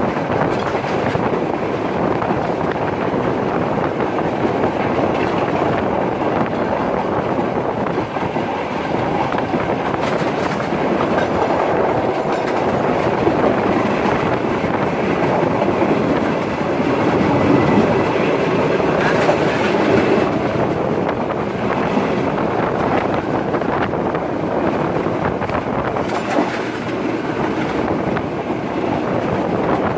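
Udaya Devi express passenger train running along the line: steady noise of its wheels on the track.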